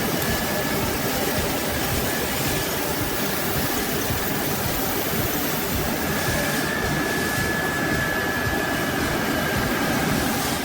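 Heavy logging machinery running with a loud, steady, even mechanical noise.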